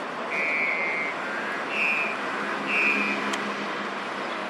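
Outdoor city background of steady traffic noise. Three short, high, flat-pitched beeps about a second apart stand out over it.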